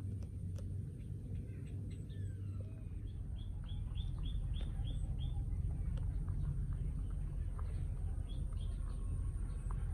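Small birds chirping, with a quick run of about seven repeated notes around the middle, over a steady low rumble.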